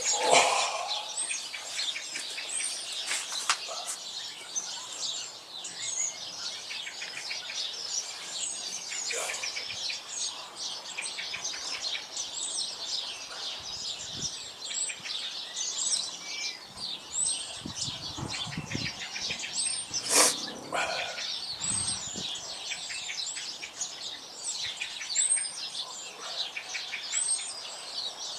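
Several garden songbirds singing and chirping, with short high calls repeating over and over; a single sharp click about twenty seconds in.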